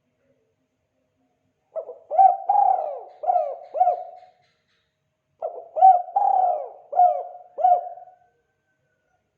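Spotted dove cooing its 'kuk 2' call: two phrases of about five coos each, the first coming in after nearly two seconds of quiet and the second about a second after it.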